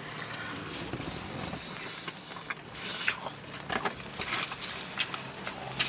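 Eating sounds: scattered clicks and short scrapes of utensils against a takeout food container, coming more often in the second half.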